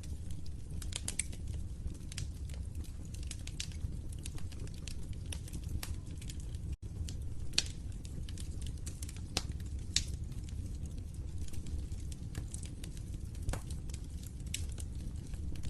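Wood fire crackling in a fireplace: irregular sharp pops and snaps, a few much louder than the rest, over a steady low rumble. The sound cuts out for an instant about seven seconds in.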